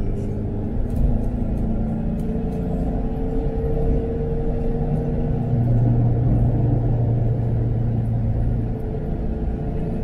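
Car engine running with road rumble, heard while driving; the engine note holds steady for a few seconds at a time and then shifts in pitch several times.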